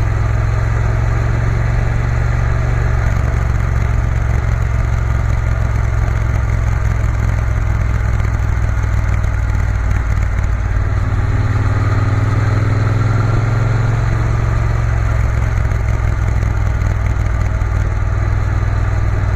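Triumph Bonneville T120's parallel-twin engine running steadily under way, heard from the moving motorcycle, with a brief shift in the engine note about two-thirds of the way through.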